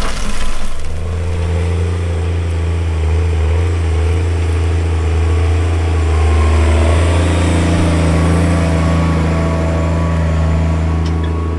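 Tractor engine running steadily, a low even drone with a slight shift in pitch about halfway through.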